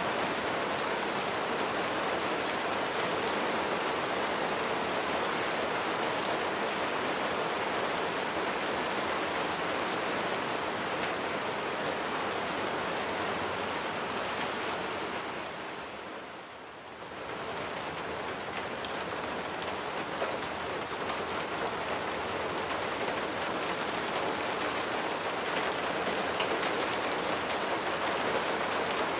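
Steady rain falling on a surface, dense patter of drops. The rain briefly fades down a little over halfway through, then comes back to full strength.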